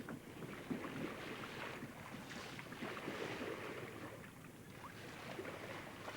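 Faint wash of wind and sea water, the sound of a big sailing yacht moving through the water.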